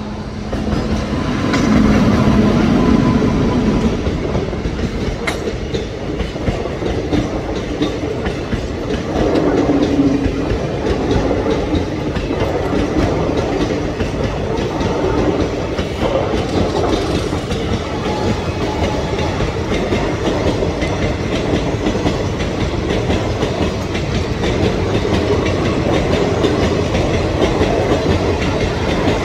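A passenger train passing close by at speed, the locomotive first and then a long line of coaches: a steady rumble of wheels on rail with clickety-clack over the rail joints.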